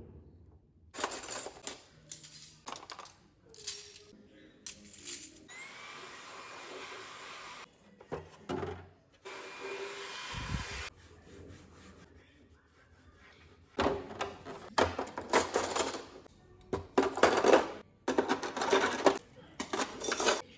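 Kitchen items being handled and set down: a string of clinks and knocks that gets busier in the second half, with two stretches of steady hiss lasting about two seconds each.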